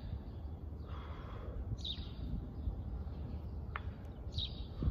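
A bird giving short high chirps about every two and a half seconds, over a steady low background rumble.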